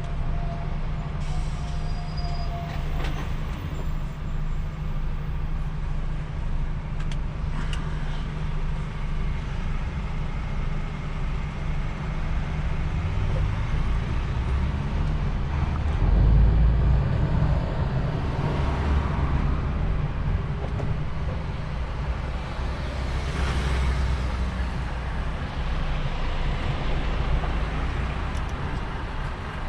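DAF XF truck heard from inside the cab while driving: a steady low engine drone with road noise. The low rumble grows louder for a couple of seconds about halfway through, and there are brief hissy swells now and then.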